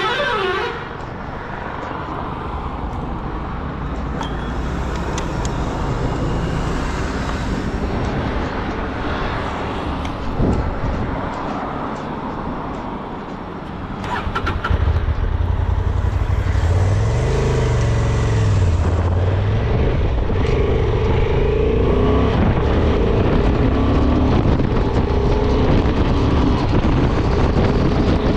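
Honda Transalp 750's 755 cc parallel-twin engine and exhaust running under way, mixed with wind and road rush. About 14 s in it gets louder, and the engine pitch rises and falls a few seconds later.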